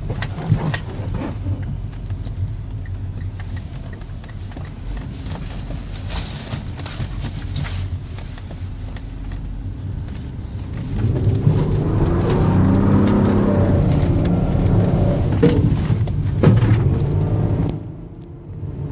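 Mitsubishi Outlander III moving off on a slippery road: steady engine and road rumble, growing louder about eleven seconds in with a pitched, wavering sound for about six seconds, then easing off near the end.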